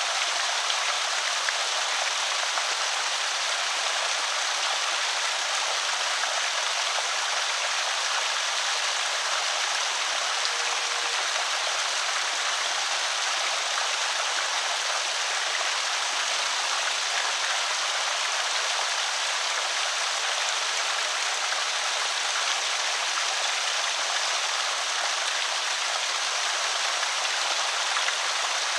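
Water pouring steadily over a small creek spillway, an even splashing rush.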